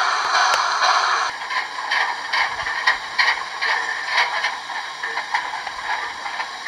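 Garden-railway model steam train: a steady steam hiss that cuts off about a second in, followed by irregular clicking and clattering from the train running over the track.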